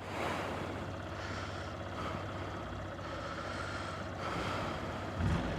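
Honda CBF125 motorcycle's single-cylinder engine running, under a steady rush of noise, with a brief louder low rumble near the end.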